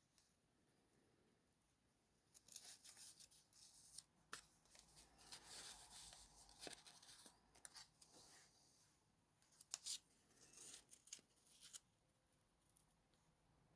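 Faint rustling and handling of paper craft materials, with a few sharp clicks, starting about two seconds in and dying away near the end.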